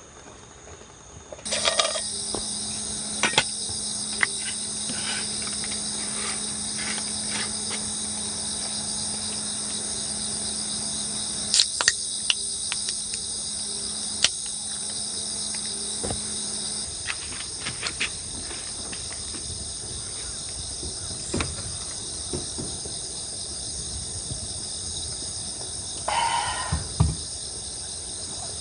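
A steady high chorus of chirping insects, likely crickets, starting abruptly about a second and a half in, with scattered sharp clicks and knocks and a short rustle near the end.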